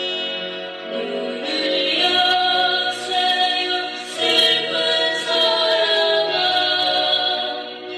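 A woman singing a sad Korean song in long held notes over musical accompaniment.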